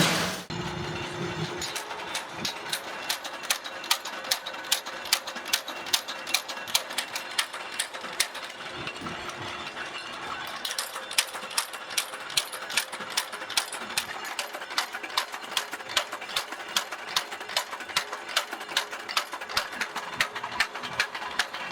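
A machine running with a regular sharp ticking or striking, about two strokes a second at first, quickening to nearly three a second about halfway through.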